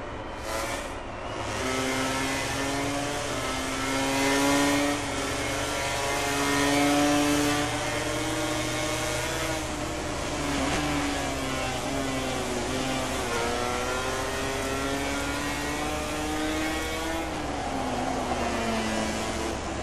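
MotoGP racing motorcycles' 1000 cc four-cylinder engines running at high revs, their pitch climbing through the gears and dropping again several times, with a long falling note near the end as they shift down.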